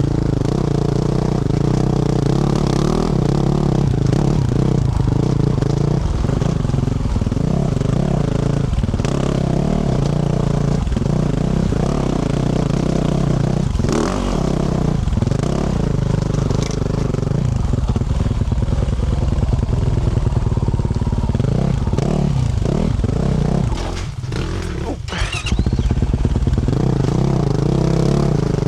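2024 Yamaha YZ450F's single-cylinder four-stroke engine, fitted with a Yoshimura RS-12 exhaust, running steadily under throttle while riding, with scattered clatter and knocks from the bike over rough ground. The engine note drops briefly a few seconds before the end, then picks up again.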